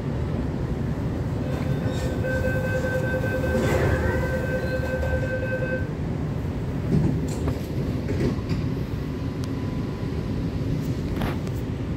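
Interior of an MTR K-Train (Tung Chung Line) carriage: the train's steady low rumble as it pulls away. From about a second and a half in, a high door-closing warning tone sounds for about four seconds.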